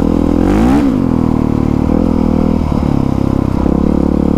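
Honda CRF450R dirt bike's single-cylinder four-stroke engine running through its aftermarket exhaust while riding. The revs rise and drop back quickly a little under a second in, then hold steady.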